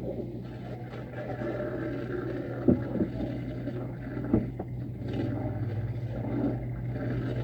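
A steady low mechanical hum, with two short sharp knocks a couple of seconds apart partway through.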